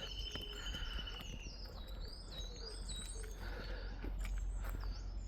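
Several songbirds singing together, with many short quick whistled notes and a rapid even trill lasting about a second and a half at the start. A low rumble runs underneath.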